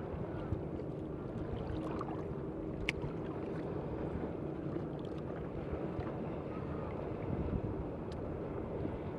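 Steady low rumbling background noise by the water, with wind on the microphone and a few faint ticks.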